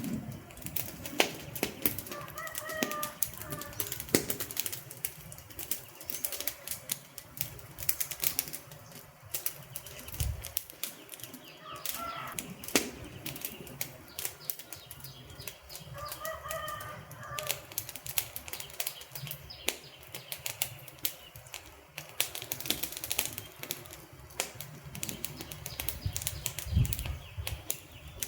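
Wood fire crackling: sharp, irregular snaps and pops of burning logs over a steady low hiss of the flames.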